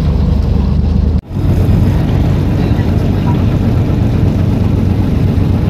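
Small passenger boat's engine running steadily under way, with a brief break about a second in.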